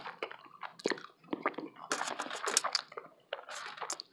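A person chewing a mouthful of breakfast burrito, with wet, squishing mouth sounds and small clicks in irregular bursts.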